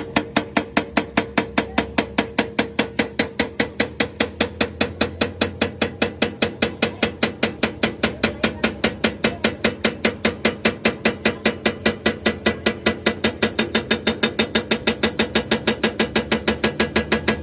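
Machine running with a steady hum and a rapid, even clicking, about five clicks a second.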